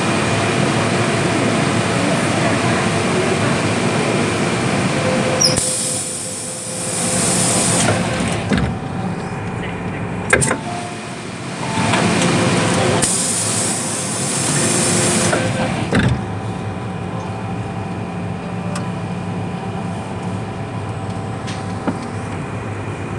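Interior noise of an MTR M-train electric multiple unit in service: steady running noise with faint steady tones. About five seconds in, and again around thirteen seconds, there are two hissing stretches of a couple of seconds each, and a few sharp clicks.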